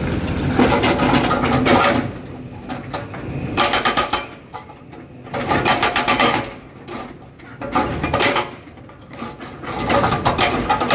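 Excavator-mounted hydraulic breaker hammering rock in short bursts of rapid blows, about five bursts with the machine running more quietly in between.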